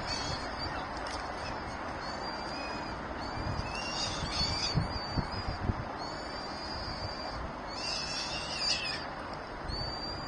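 Birds calling: short high-pitched calls repeated every second or so, with two louder bursts of chattering about four and eight seconds in, over a steady background hiss.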